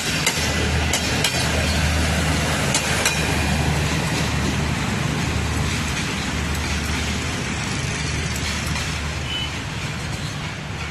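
Passenger train running past: a steady low rumble with a few sharp wheel clicks over rail joints in the first three seconds, slowly easing off toward the end.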